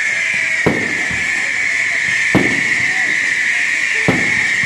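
Fireworks bursting: three sharp bangs about a second and a half apart, each trailing off in an echo, over a steady high hiss.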